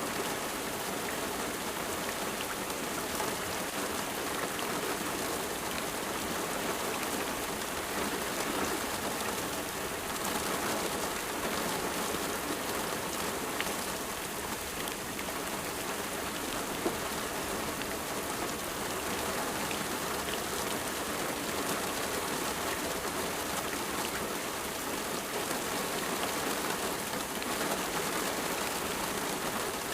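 Steady rain falling on surfaces, a dense even hiss with fine individual drop ticks scattered through it and one sharper drip about seventeen seconds in.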